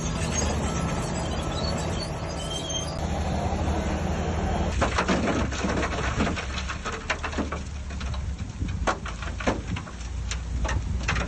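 Heavy diesel earthmoving machinery running with a steady low rumble. From about five seconds in, a series of sharp knocks and clatters sounds over it.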